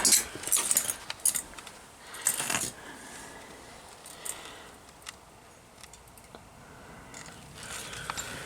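Scattered light clicks and rustling handling sounds with a small metallic jingle, in two clusters in the first three seconds, then a quieter stretch with a few faint ticks.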